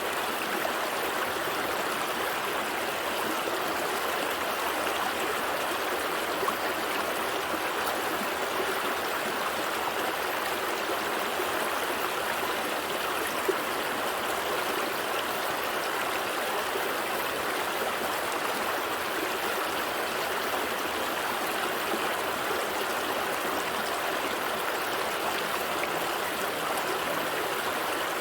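A gentle stream flowing over rocks: a steady, even rush and babble of water.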